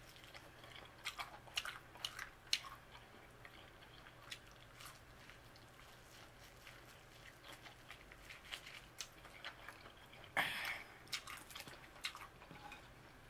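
Close-up eating of corn on the cob: biting kernels off the cob and chewing, with many short wet mouth clicks and smacks. A brief louder noise comes about ten and a half seconds in.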